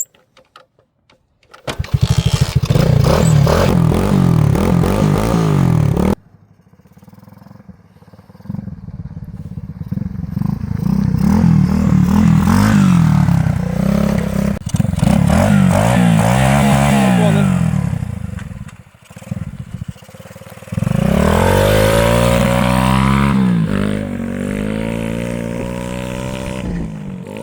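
A 110cc four-stroke air-cooled dirt bike engine revving as it is ridden, its pitch climbing and dropping again and again as it pulls through the gears. The sound breaks off suddenly about six seconds in, comes back gradually, and returns loud again about two-thirds of the way through.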